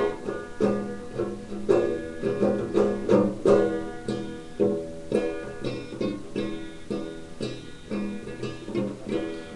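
Instrumental break of a song: a plucked string instrument picking a run of notes, each one struck and fading, with no singing.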